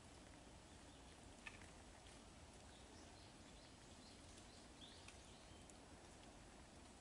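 Near silence: quiet outdoor ambience with a few faint, short bird chirps scattered through it, and one small click about a second and a half in.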